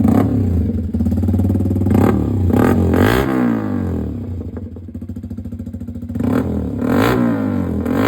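Yamaha motorcycle engine running through its newly refitted exhaust and revved in repeated throttle blips. It drops back to a quieter idle in the middle, then is blipped again several times near the end. This is a sound check after the exhaust install.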